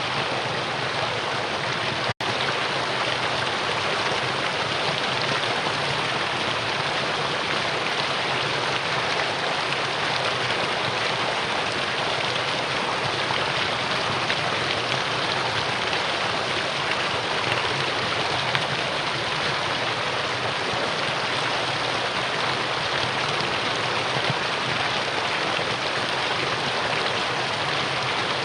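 Mountain valley stream flowing in a steady, even rush of water. There is a momentary dropout about two seconds in.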